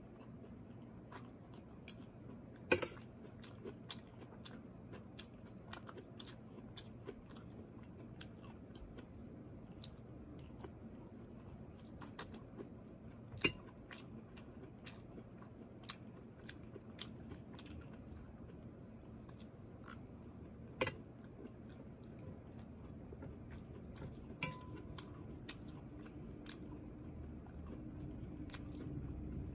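Close-up chewing and biting of broccoli florets, with irregular crunchy clicks all through and a few sharper, louder clicks.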